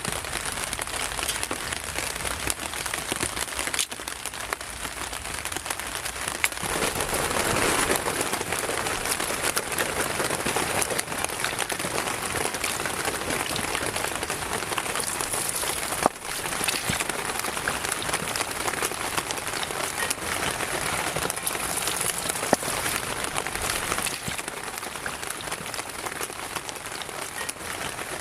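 Heavy rain falling steadily, growing louder about a quarter of the way in, with a couple of single sharp knocks later on.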